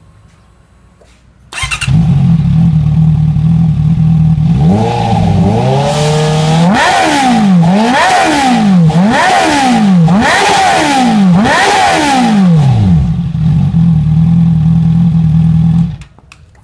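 Big-bike motorcycle engine through an IXIL full exhaust system with the baffle taken out, starting up, idling, then revved once gently and blipped five times in quick succession before settling back to idle and cutting off near the end.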